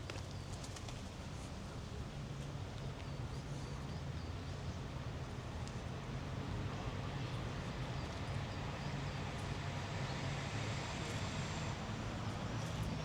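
City street ambience: a steady low rumble of distant traffic that grows somewhat louder toward the end, with a few faint bird chirps a few seconds in.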